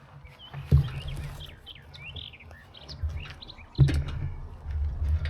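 Small birds chirping and twittering in quick short calls, over a low rumble. Two sharp knocks come, one under a second in and one near the end, and the rumble grows louder after the second.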